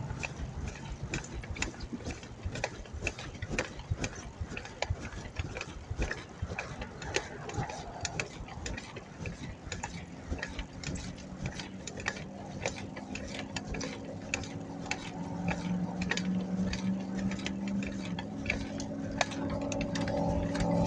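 Bicycle freewheel hub ticking rapidly as the bike coasts. Over the last several seconds a motor vehicle's engine hum comes in and grows louder.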